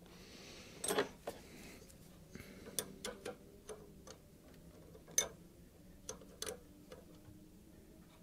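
Light metallic clicks and ticks, about a dozen at irregular intervals, from brake line union nuts and pipes being handled and threaded into the ABS pump by hand.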